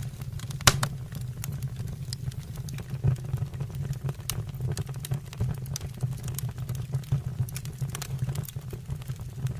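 Wood fire in a fireplace crackling, with irregular sharp pops and snaps over a steady low rumble; the loudest pop comes just under a second in.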